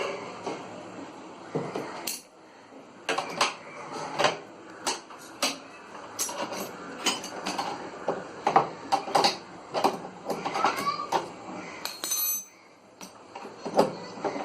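Repeated clinks, taps and knocks of hand tools and screws being handled while a washing machine's plastic parts are screwed back together, irregular and spread out, with a short lull near the end.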